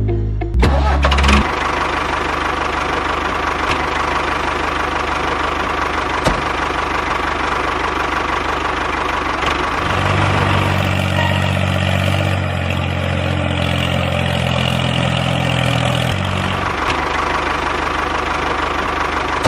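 Small engine of a DIY mini tractor running steadily, with a stronger low hum from about ten to sixteen seconds in.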